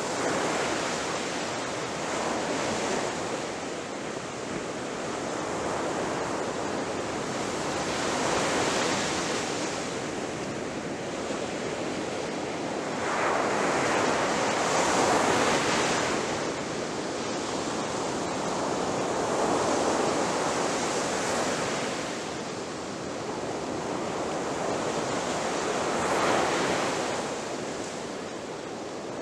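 Ocean surf: waves breaking and washing up a beach in a continuous rush, swelling and fading every few seconds, with the biggest surge about halfway through.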